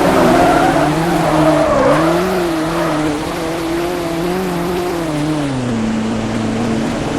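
An engine-like motor sound revving up and down in slow waves, then settling to a steady lower hum about six seconds in.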